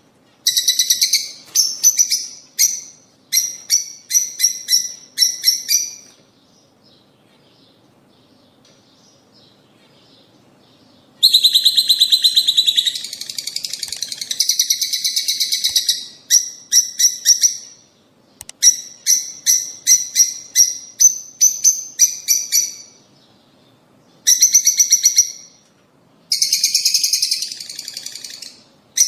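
Lovebirds chirping: runs of rapid, shrill chirps in groups of a few seconds each. After the first run comes a pause of about five seconds, then a longer, dense stretch of chattering, then more runs of chirps.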